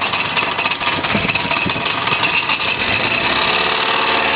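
Nissan 30 outboard motor running steadily at low speed in forward gear, just above idle, growing slightly louder toward the end.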